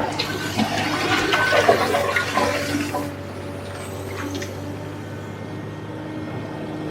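Komatsu PC350LC excavator's engine running steadily under a loud rushing, rattling noise, which stops about three seconds in and leaves the engine alone.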